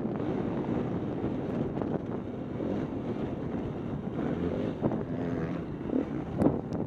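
Dirt bike engine running under way, buried in heavy wind buffeting on the microphone, with a few sharp knocks near the end.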